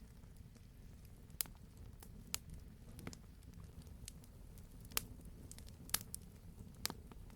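A real wood fire crackling: a low, steady rumble of flame under sharp pops from the burning wood, with about six louder pops spread through.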